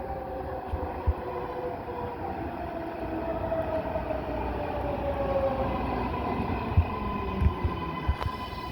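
MARTA rapid-transit train running at the platform, its motor whine slowly falling in pitch under steady rumble, with a few low thumps near the end.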